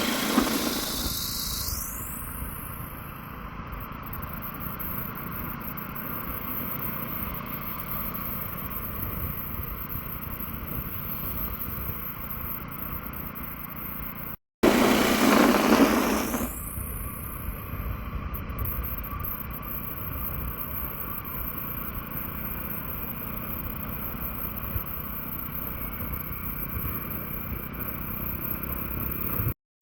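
City street traffic, mostly motorbike engines running and passing, with air rushing over the microphone while cycling. The sound drops out twice; each time it comes back with a loud burst of hiss that fades over a couple of seconds.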